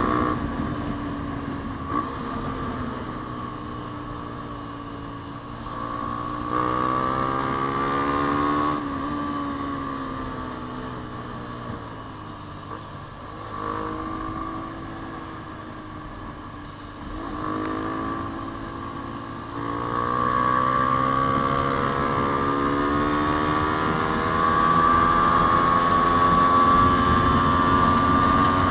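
Yamaha Sniper 150's single-cylinder four-stroke engine through an aftermarket JVT exhaust pipe, under way on the road. Its pitch rises under throttle about seven seconds in, falls away as the rider eases off, then climbs again and keeps building toward the end.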